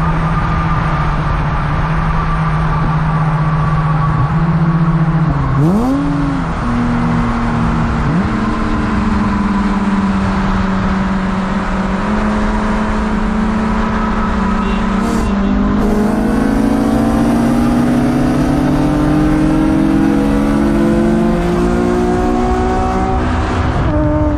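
Car engine running under way: a steady drone, a quick rev up and back down about five seconds in, then the pitch climbs slowly as the car gathers speed, with a small step down near the end.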